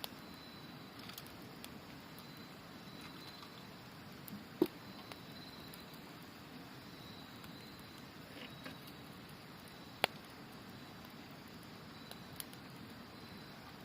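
Wood campfire crackling, with two sharp pops about four and a half and ten seconds in, over the steady rush of a river and a faint high trilling of autumn insects.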